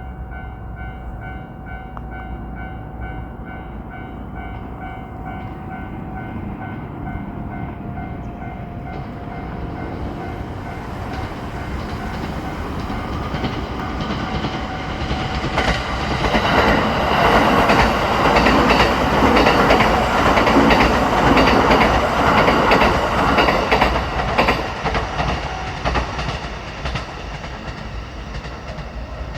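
Japanese level-crossing alarm ringing in a fast repeating pattern as a 285 series sleeper electric train approaches. The train passes with rising rumble and rhythmic wheel clatter over the rail joints, loudest in the second half, then fades near the end.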